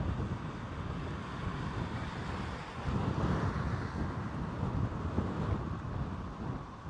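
Strong gusty wind buffeting the microphone, a rumbling, uneven rush that picks up about three seconds in.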